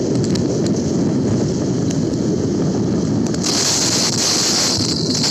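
Truck engine running, a dense steady rumble, with a loud high hiss joining about three and a half seconds in.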